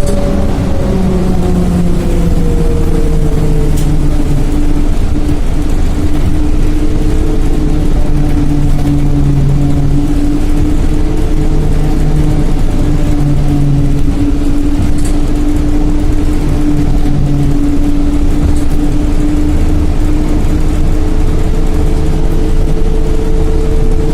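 Trolleybus electric traction motor whining, heard from inside the vehicle: the pitch falls over the first few seconds as it slows, holds steady, then rises again near the end as it picks up speed, over a steady low rumble of the ride.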